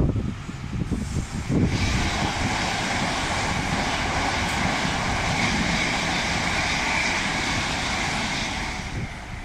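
Electric passenger trains, an Elizabeth line Class 345 and a Great Western Railway unit, passing at speed on the main line below: a steady rush of wheels and air with a faint whine. It swells about two seconds in and fades near the end.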